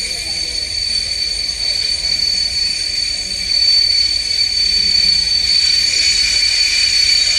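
Train at a station platform giving off a steady high-pitched whine and hiss, growing louder about halfway through.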